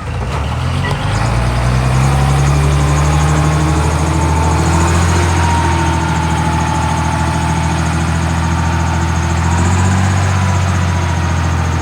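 Heavy earthmoving machine's diesel engine running steadily and loud, building up over the first couple of seconds.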